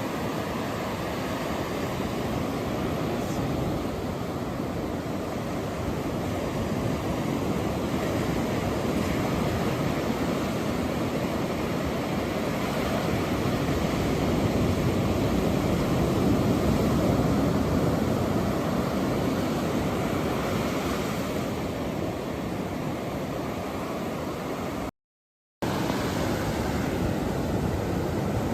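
Ocean surf: a steady wash of waves that swells gently and eases back, cutting out abruptly for about half a second near the end.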